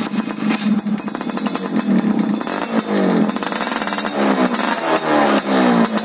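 Yamaha F1ZR's single-cylinder two-stroke engine running loud through a racing exhaust, with rapid firing pulses, revved up in pitch several times in quick succession through the middle.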